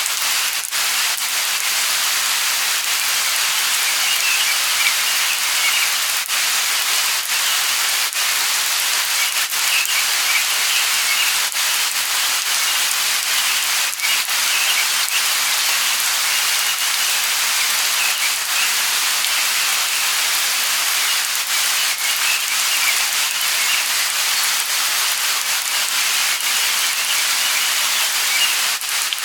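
Light rain falling steadily, an even hiss of drops with no let-up.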